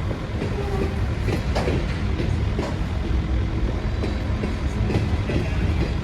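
Train running along the rails: a steady low rumble with scattered short clicks and brief squeaks from the wheels.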